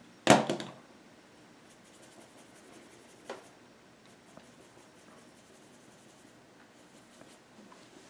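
A brief voiced syllable just after the start, then faint strokes of a paintbrush working acrylic paint over canvas, with a single small tap about three seconds in.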